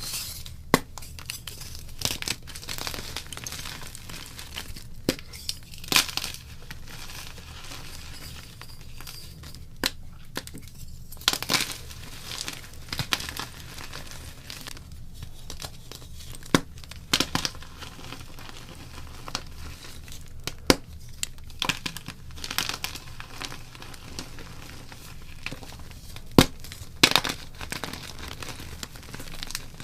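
Blocks of gym chalk being crushed and broken up close: a steady soft crumbling and crunching, with irregular sharp cracks as pieces snap, a few much louder than the rest.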